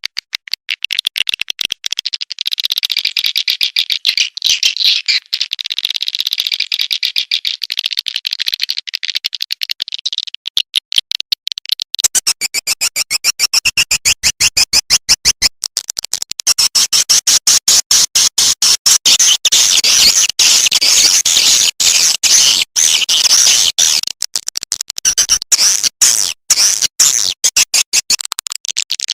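Swiftlet lure call recording: fast trains of high, clicking twitters and chirps of swiftlets, played continuously to attract the birds. About twelve seconds in it turns louder and denser, a fuller chattering with many rapid pulses.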